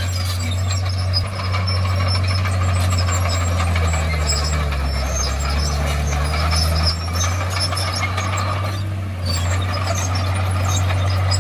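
Diesel engine of a Komatsu crawler bulldozer running steadily under load. Its pitch shifts midway and the sound dips briefly near the end, over scattered higher clinks.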